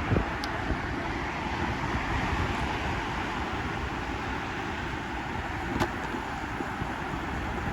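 Steady rush of wind and road noise from a moving motorbike in traffic, with a couple of brief knocks, one near the start and one about six seconds in.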